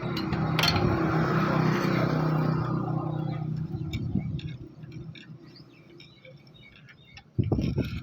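A motor runs with a steady hum, then slows and dies away about three to five seconds in. Light ticking and clicking follows, and near the end comes a sudden louder clatter.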